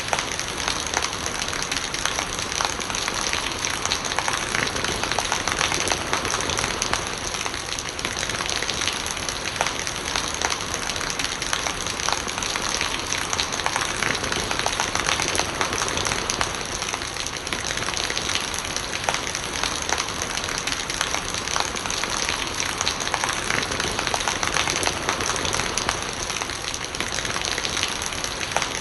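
Steady rain with many small drop impacts and rainwater gurgling as it runs off.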